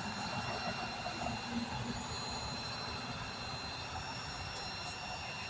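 Tow truck's engine running steadily at the scene, a low even rumble with no change in pace.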